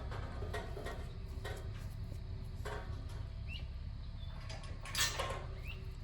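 Birds calling outdoors with short chirps that drop in pitch, over a steady low rumble, with a few soft rustles early on and one louder, short hissing burst about five seconds in.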